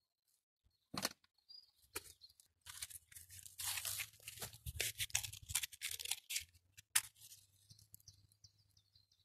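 Crackling, tearing and rustling of some material being torn or crumpled, with sharp snaps about a second in and near seven seconds.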